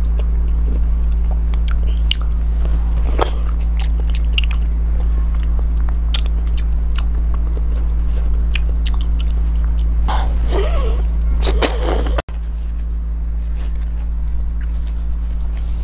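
Close-miked mouth sounds of eating soft, fatty glazed food: scattered small wet clicks and smacks of biting and chewing, busier for a couple of seconds just before an abrupt cut about twelve seconds in. A steady low hum runs underneath.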